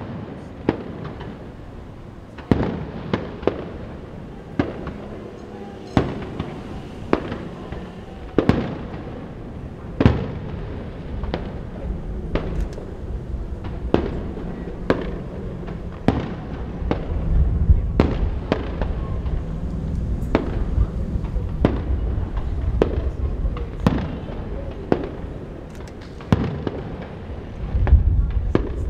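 Fireworks shells bursting one after another, a sharp bang every second or so at an uneven pace. Under the bangs runs a low rumble of wind on the microphone, which swells about two-thirds of the way through and again near the end.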